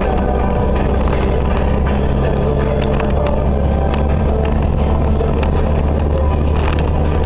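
Fiat 126p's air-cooled two-cylinder rear engine running at a steady cruising speed, heard from inside the small car's cabin as a loud, even drone, with a few short clicks and rattles.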